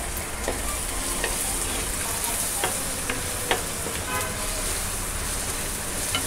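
Onion and tomato tempering sizzling in oil in a pan, a steady sizzle, with a spoon stirring and clicking against the pan now and then. A short pitched squeal sounds about four seconds in.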